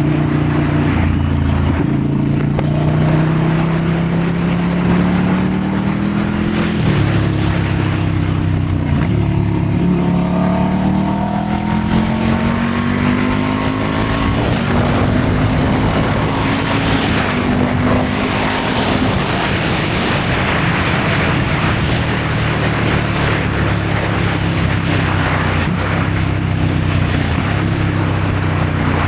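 Ducati Scrambler's air-cooled L-twin engine under way, its revs climbing through a gear and dropping sharply at each upshift a few times, then running at a steadier cruise.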